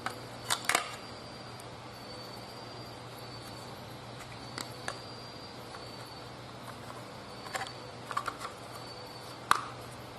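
Scattered small plastic clicks and snaps of a car power-window switch's housing being fitted back together, with the sharpest snap near the end.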